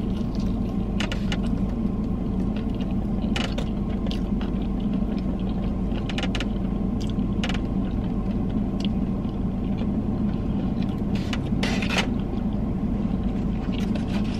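Close-up chewing of a crispy fried chicken sandwich, with scattered crunches and mouth clicks, over a steady low hum from the running car.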